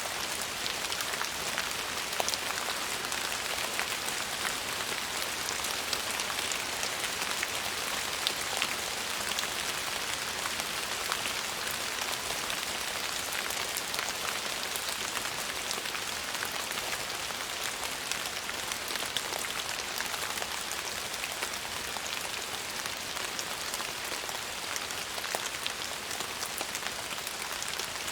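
Steady rain falling on a surface, a continuous hiss with many separate drops ticking through it.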